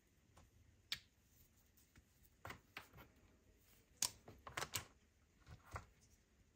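Scattered light clicks and taps of small accessories being handled, at irregular intervals, with a quick run of clicks a little past the middle.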